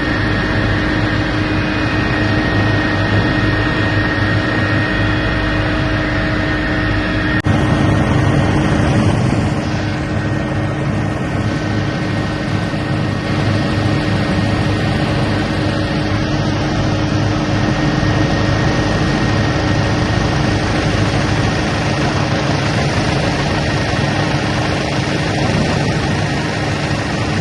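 Steady engine drone with a few constant tones. The sound changes abruptly about seven seconds in, then carries on as a similar drone.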